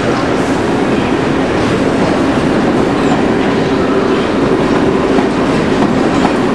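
London Underground train running along the platform, with a steady hum under the noise of its wheels on the rails.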